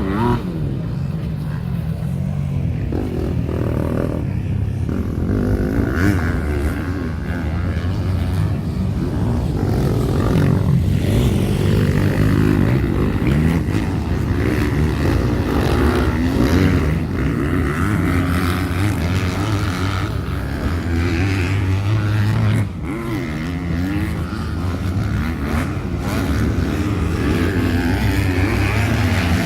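Modified racing motorcycle engines running, loud and steady, with a brief dip in level a little over twenty seconds in.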